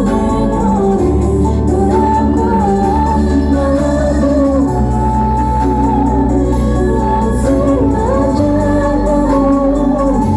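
Loud music played through a large carnival 'sound horeg' speaker system: a sung melody over heavy bass notes, each bass note held for a second or more.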